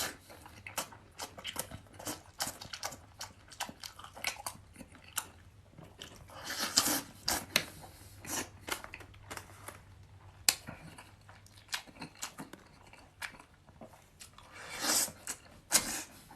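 Close-up crunchy chewing and biting through a fried chicken head, bones and all, in many irregular sharp crunches with louder bursts of crunching about halfway through and near the end.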